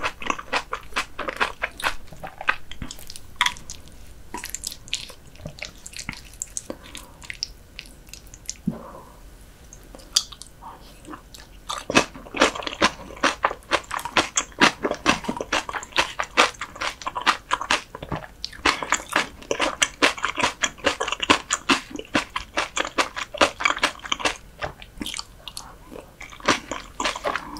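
Close-miked chewing of raw whitebait sashimi with seasoned vegetable salad: a dense run of small wet mouth clicks and crunches. It thins out for several seconds in the first third, then comes thick again a little before halfway.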